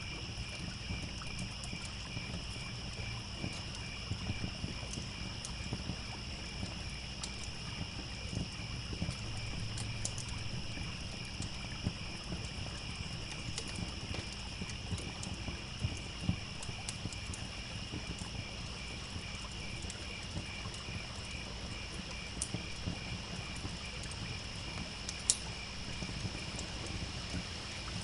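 Crickets chirping in a steady chorus over the crackle of a campfire, with scattered pops and one sharper pop near the end.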